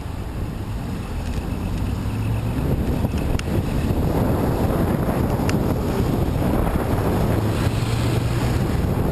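Wind buffeting the microphone while moving into a headwind: a dense, unpitched rumble that grows louder about two seconds in.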